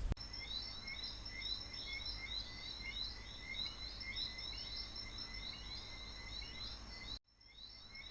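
Outdoor nature ambience: a dense chorus of short, high chirps repeating many times a second over a steady high-pitched drone. It drops out briefly about seven seconds in.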